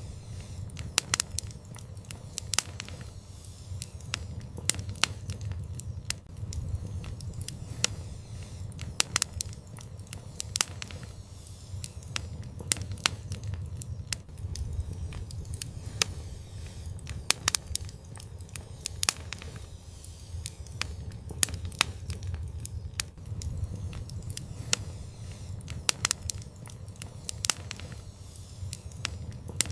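Fire in an outdoor fireplace crackling, with many sharp, irregular pops and snaps over a low, steady rumble.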